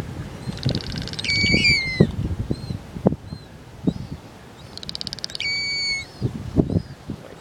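Gulls calling in alarm, twice: each call a fast rattle that runs into a held, whistle-like note curling down at the end. Scattered low thumps sound underneath.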